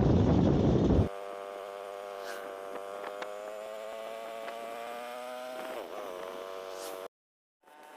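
Wind rushing over the microphone for about a second, then an abrupt cut to a steady droning hum with several overtones that wavers slightly, ending in a sudden cut to silence near the end.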